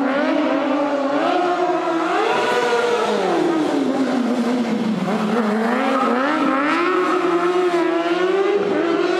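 A high-revving vehicle engine. Its pitch climbs in steps, drops between about three and five seconds in, then climbs again and holds high near the end.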